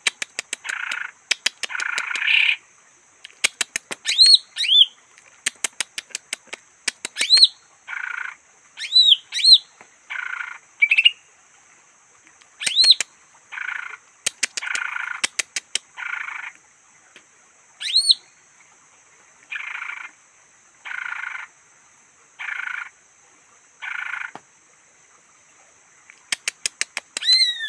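Greater green leafbird (cucak hijau) calling in a series of rapid clicking runs, short whistled notes that sweep up and down, and harsh buzzy notes about half a second long, repeated every second or two.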